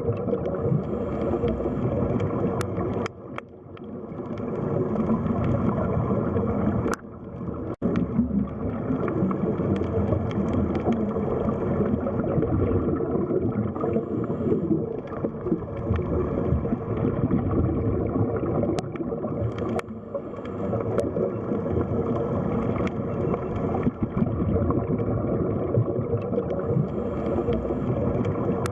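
Underwater sea ambience: a steady, dense rumbling and gurgling wash of water with a few faint clicks. It dips briefly about three seconds in, drops out sharply for an instant around eight seconds, and dips again at the very end.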